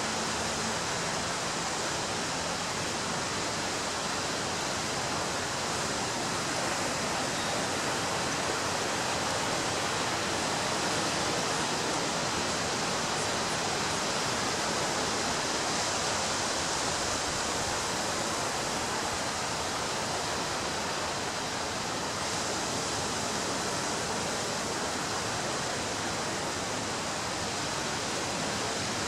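Ocean surf on a beach, heard as a steady, even rush of noise with no distinct swells or wave breaks.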